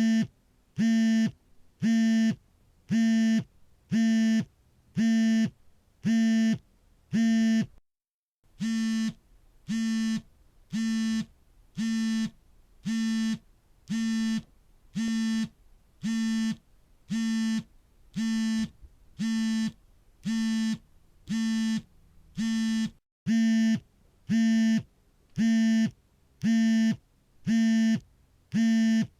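Mobile phone vibrating for an incoming call: a steady buzz about half a second long, repeating about once a second. The pattern breaks with a brief silence about eight seconds in and again about twenty-three seconds in.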